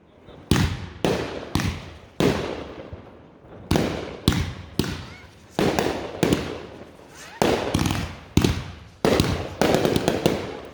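Aerial fireworks bursting in quick succession: well over a dozen sharp bangs, each trailing off in a rolling echo, coming faster near the end.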